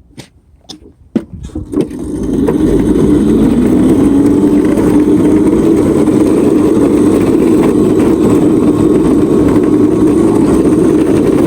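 Electric drift kart (Razor Crazy Cart) motor getting going about two seconds in, its whine rising slightly in pitch and then holding steady over a loud rumble as the cart is ridden.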